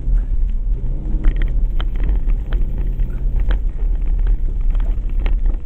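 Porsche Cayenne driving over small bumps with a low steady rumble, its front suspension giving several short squeaks scattered through the rumble. The owner suspects a worn front shock absorber mount.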